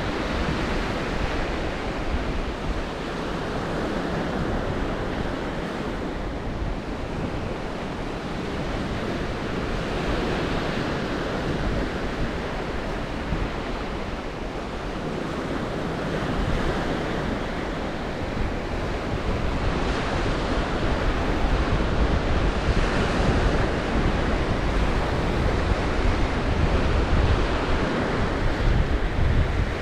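Black Sea surf breaking and washing on the shore in a continuous roar of waves, swelling and easing, with wind buffeting the microphone. It grows a little louder about two-thirds of the way through.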